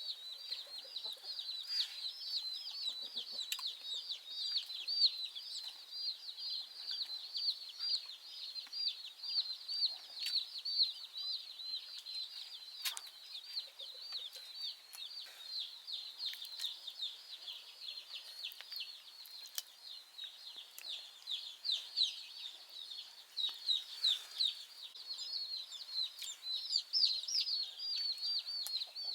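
Many chicks peeping in a dense, unbroken chorus of short, high-pitched cheeps, with a few faint clicks.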